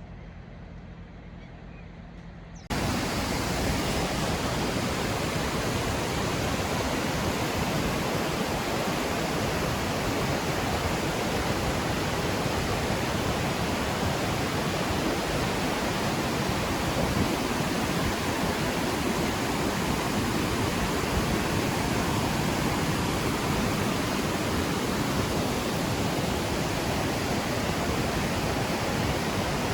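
A low hum, then about three seconds in a sudden cut to the steady, heavy rush of a waterfall.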